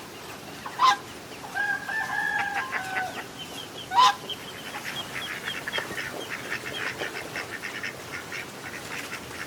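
Chickens calling: two short sharp calls and a steady held call in the first few seconds, then a fast run of short high notes, several a second.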